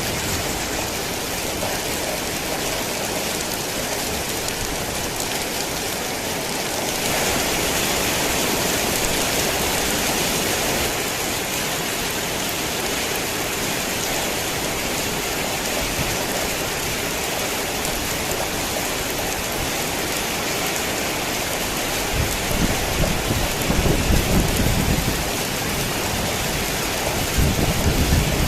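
Heavy rain falling steadily, getting louder about seven seconds in. Low rumbles of thunder come in twice near the end.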